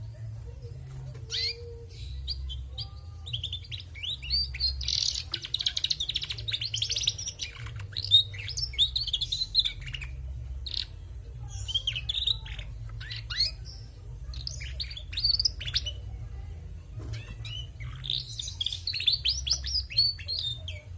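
Female domestic canary twittering: several runs of quick, rapid chirps with short pauses between them.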